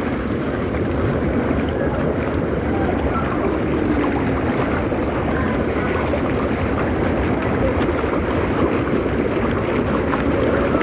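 Water-park pool bubbler churning the water, a steady loud rush of bubbling and splashing.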